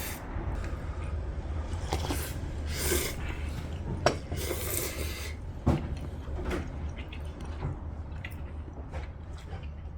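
Diners slurping noodles and sipping broth from bowls, with scattered small clicks of chopsticks and spoons against the dishes, over a steady low room hum.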